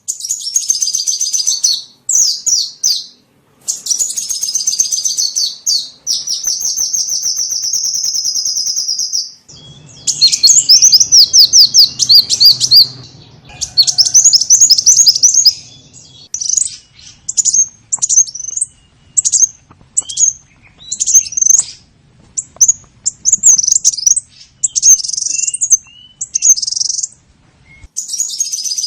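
Small songbird calls played as a bird lure: rapid high-pitched chirps and buzzy trills in bursts with short gaps between them.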